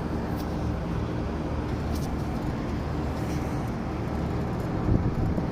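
Trane 25-ton package air-conditioning unit running, a steady low mechanical hum of its fans and compressor, with a few faint ticks.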